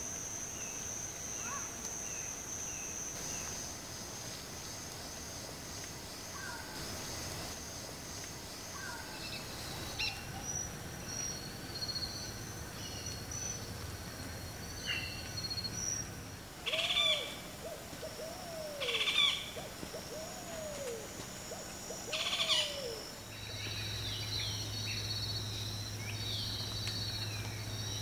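Wild birds calling in tropical forest over a steady high insect buzz, with a run of low, downward-sliding hooting notes in the second half.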